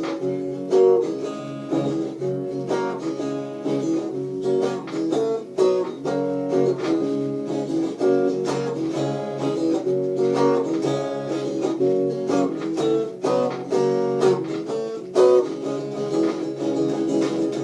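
Guitar playing strummed chords in a steady rhythm, the instrumental introduction before the vocals come in.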